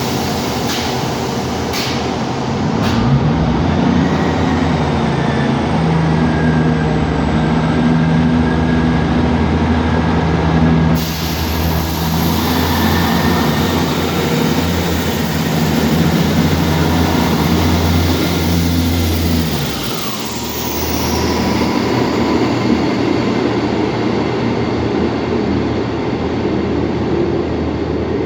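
Class 159 diesel multiple unit's Cummins diesel engines powering up as the train pulls away, after a few sharp clicks at the start. The engines hold a loud, steady drone, then the note drops briefly about 20 seconds in and the train runs on more quietly.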